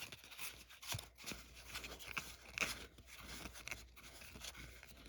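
Trading cards being handled and flipped through by hand: a faint, irregular run of short rustles and soft taps as the cards slide against each other.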